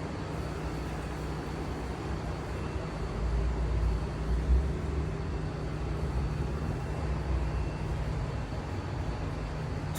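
2015 Hyundai Sonata Hybrid's 2.4-litre four-cylinder replacement engine running steadily with a low hum, the rumble swelling briefly about three to five seconds in.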